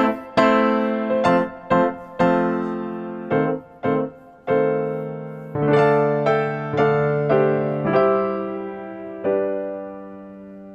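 Background piano music: a slow melody of single struck notes over held lower notes, the last chord ringing and fading out near the end.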